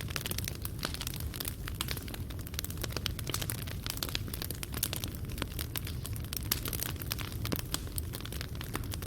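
Fireplace fire burning: a steady low rumble of flames with many small, irregular crackles and pops from the burning wood and coals.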